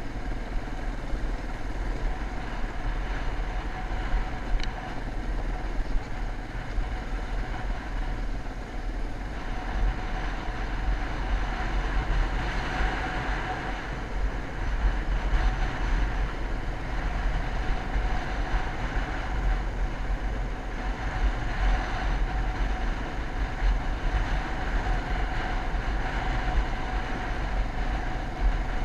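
Motocross bike engine running steadily, with a heavy low rumble underneath.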